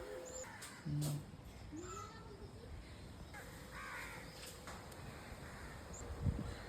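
Birds calling, with a harsh, crow-like caw about halfway through and short, thin chirps around it.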